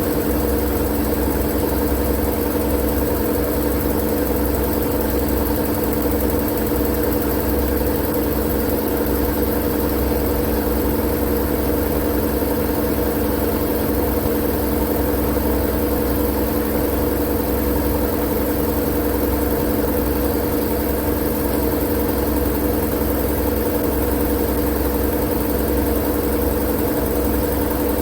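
Steady, unchanging machine-like white noise: a constant hiss with a low droning hum underneath.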